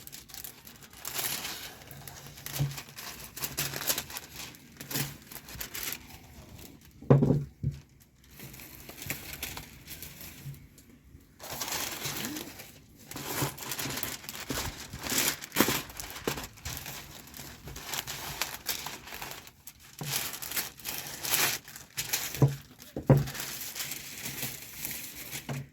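Wrapping material crinkling and crumpling in irregular handfuls as chicken drumsticks are wrapped one at a time, with a few louder handling thuds.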